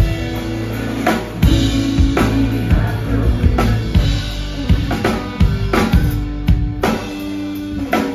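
Live rock band playing an instrumental passage: a drum kit keeps a steady beat of kick and snare hits over held notes from bass, guitar and keyboards.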